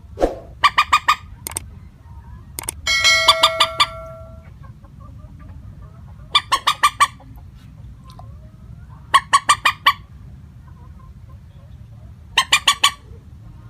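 Common moorhen calling: short bursts of four or five rapid clucking notes, repeated about every three seconds. About three seconds in comes a louder, longer burst with a held steady tone. A low steady hum runs underneath.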